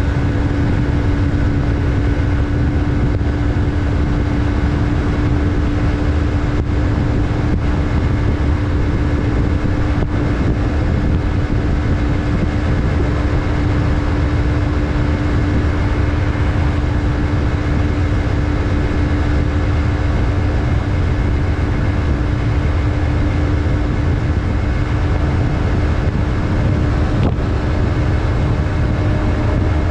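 Yamaha MT-03's 321 cc parallel-twin engine running at steady revs while cruising, its note holding almost level throughout, over a heavy rush of wind and road noise.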